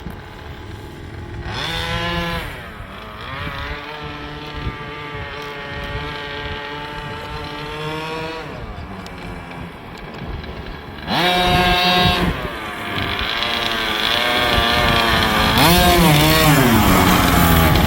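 Small engine of an RC truck running on a test run after its gear change point was altered, revving up and down several times with the pitch rising and falling. It gets much louder about two-thirds of the way in.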